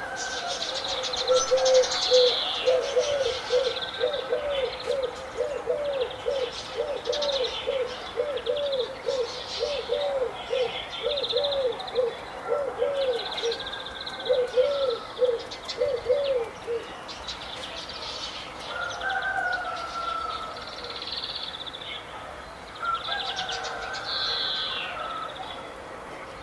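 Several birds calling at once: high chirps and trills throughout, over a low hooting note repeated about two a second that stops about two-thirds of the way through.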